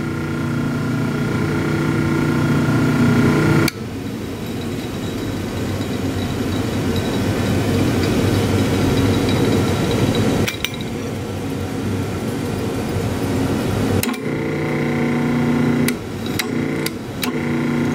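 Rebuilt 1930s Delta DP220 drill press motor running on new bearings: a steady electric hum, with a noisier rattling stretch in the middle. The sound changes abruptly a few times.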